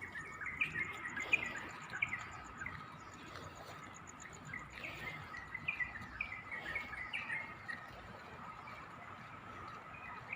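Several small birds chirping in short, repeated, downward-sliding notes, with a faint fast high-pitched insect-like trill and a faint steady tone underneath.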